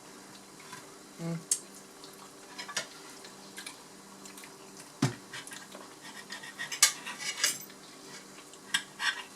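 Cutlery clinking and scraping against plates while people eat, in scattered sharp clinks, the loudest about five and seven seconds in.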